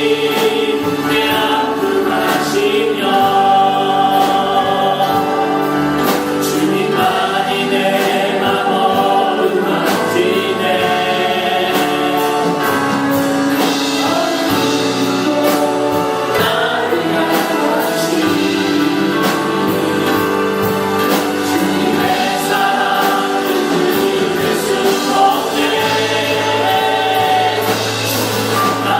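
Choir singing a gospel worship song with instrumental accompaniment, sustaining long held notes.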